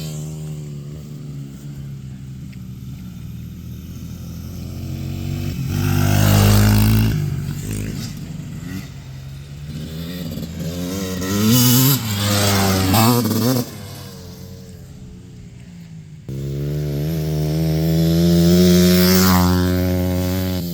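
Dirt bike engines running and revving as the bikes ride past, the engine note rising and falling, loudest in several swells as they come close.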